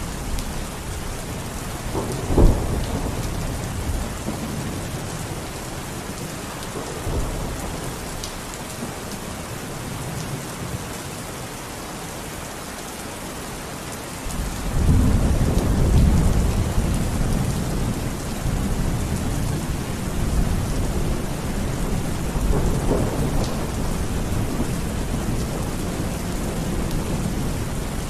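Steady rain falling, with thunder: a sharp crack about two seconds in, and a long low rumble that starts about halfway and lasts several seconds.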